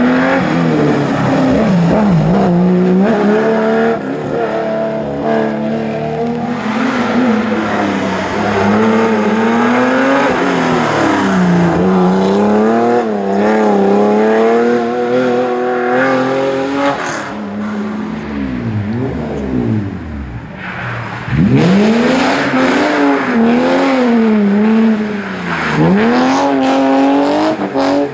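Historic rally car engines at full racing revs, the pitch climbing and dropping again and again through gear changes and lifts off the throttle. The level jumps suddenly about two-thirds of the way in.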